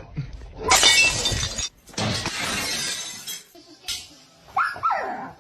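Glass shattering: a loud crash about a second in, with the ringing of breaking glass.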